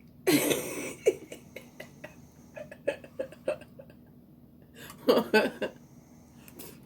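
Close-up eating sounds: a loud breathy exhale just after the start, then small wet mouth clicks of chewing, and a short vocal sound about five seconds in.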